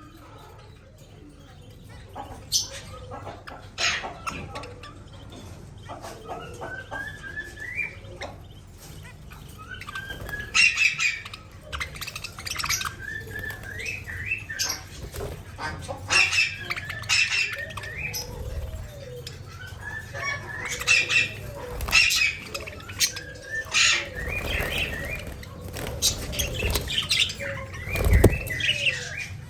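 Pet budgerigars chirping and warbling in short rising phrases that come every second or two, with sharp clicks among them and a low thump near the end.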